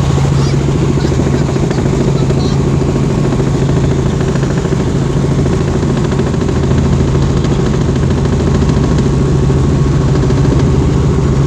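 Helicopter running: a loud, steady drone with a strong low hum.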